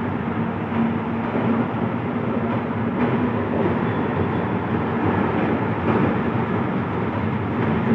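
Electric express train rolling along the track: a steady rumble with a constant low hum underneath.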